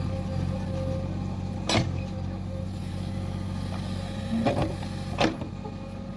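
Backhoe loader's diesel engine running steadily at working speed, with three sharp knocks of the machine at work: one about two seconds in and two close together near the end.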